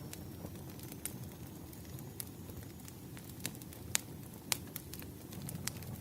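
Wood fire burning: a steady low rumble with scattered sharp pops and crackles, two louder snaps near the middle.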